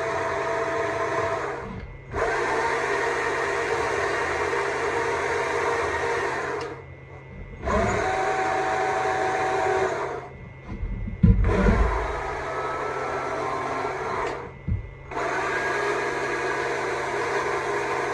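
Stihl MSA 200 C battery chainsaw running in about five bursts of a few seconds, cutting wood, with short pauses between. In the pauses come a few low knocks, the loudest about eleven seconds in.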